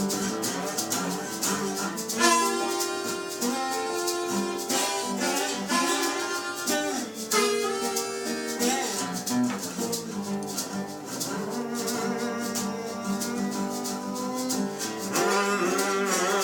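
Live band playing an instrumental passage between verses: guitar with a shaker keeping a steady beat and a melody line that slides between notes.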